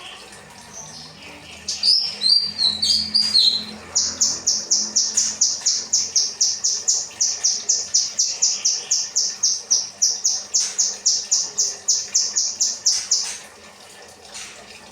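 Kinoi bird singing: a short varied warble about two seconds in, then a long run of rapid, evenly repeated high notes, about four a second, which stops a little before the end.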